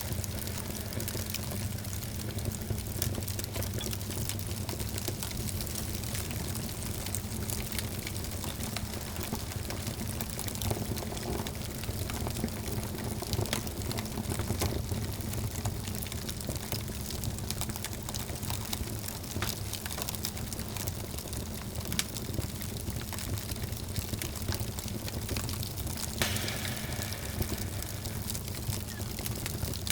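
Wood fire burning in a fireplace, crackling with frequent sharp pops and snaps over a steady low rush.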